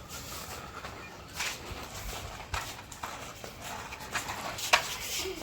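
Scattered knocks and clicks with rustling as toy vehicles are handled and rummaged through, one sharper knock near the end.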